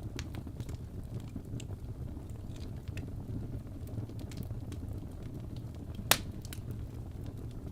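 Wood fire in a fireplace burning with a steady low rumble and scattered small crackles, and one sharp loud pop about six seconds in.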